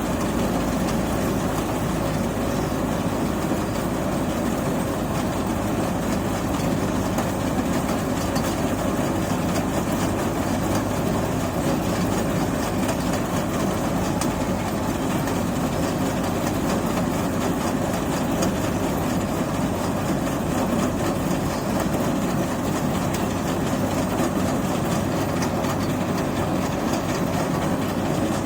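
Paddy-pouring machine running steadily, a continuous engine drone with no change in speed.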